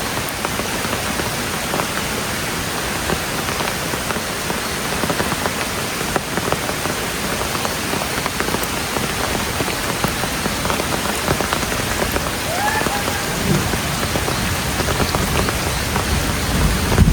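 Steady heavy rain pattering on surfaces, with a low rumble building near the end.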